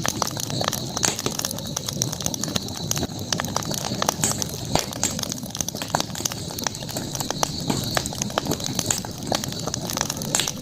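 Campfire burning, with irregular sharp snaps and pops of crackling wood over a low steady rush of flame.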